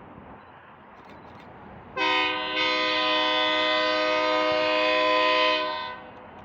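Diesel locomotive air horn sounding one long blast of about four seconds. It plays a chord of several notes, starting suddenly and fading out near the end.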